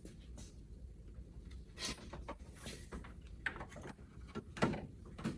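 Hands working plastic clips and a wire harness behind a pickup's grille: scattered small clicks, knocks and brief scrapes, with one louder knock about four and a half seconds in.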